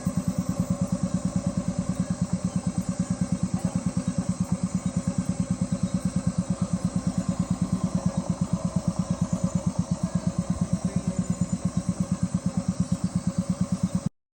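A boat motor running steadily with a fast, even chug, cutting off abruptly near the end.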